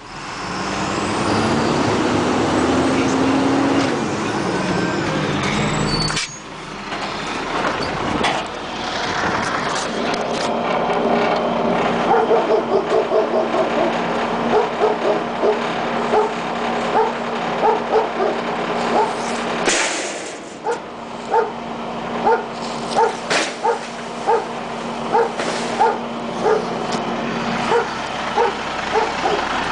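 A garbage truck (2003 International with a Labrie side-loader body) running, its engine and hydraulics giving a steady hum, with a short hiss about two-thirds through. From about halfway a dog barks over it again and again, one or two barks a second.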